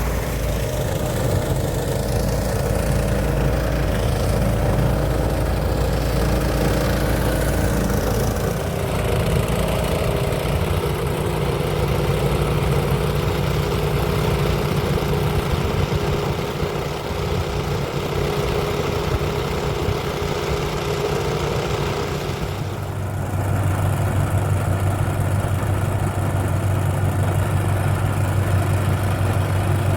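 Engine of a paddy threshing machine running steadily. Its tone changes abruptly about nine seconds in and again near 23 seconds.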